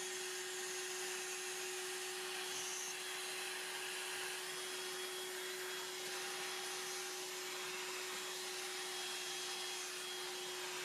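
Hoover Air Cordless 20V handheld vacuum running with its crevice tool fitted: a steady single-pitch motor whine over an even rush of suction air.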